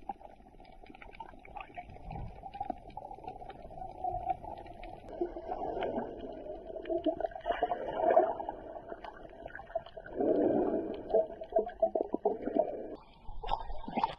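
Muffled underwater sound from a camera held below the surface while snorkelling: water rushing and gurgling, swelling and fading, with faint clicks.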